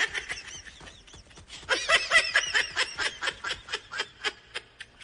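A person laughing in a quick run of short, high-pitched bursts, strongest from about two seconds in.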